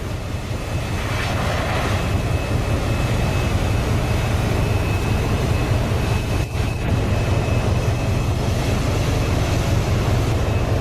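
Heavy icebreaker ship pushing through sea ice: a steady deep rumble of engines and hull against ice under a continuous noisy wash.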